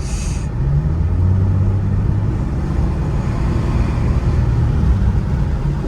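Ford Mustang's engine running under steady road noise inside the cabin, its low note swelling as the car picks up speed about a second in.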